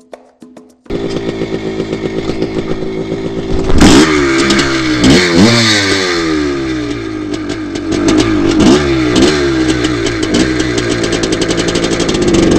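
1982 Maico 490's two-stroke single-cylinder engine running, cutting in suddenly about a second in and revved up sharply several times in quick blips.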